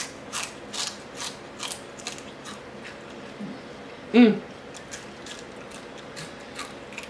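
Close-up chewing of crispy fried crappie, with the crunches coming about twice a second for the first two seconds and then fading to softer clicks. About four seconds in there is a short voiced 'mm'.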